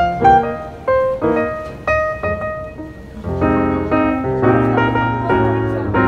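Background piano music: a melody of single struck notes, thinning out and quieter just before the middle, then fuller sustained chords from about halfway.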